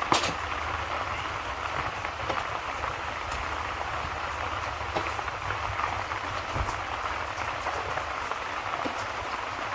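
Steady rain, with scattered sharp pops like fireplace crackles, the loudest just after the start.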